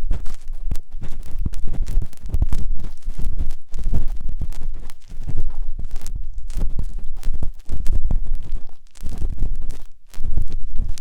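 Ear-cleaning tool scraping and rubbing inside the rubber ear of a 3Dio binaural microphone, heard from inside the ear canal as close, rumbling scratches in quick uneven strokes with a few short pauses.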